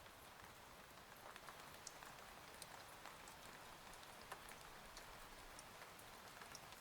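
Faint, steady rain with scattered small drop ticks, a soft rain ambience.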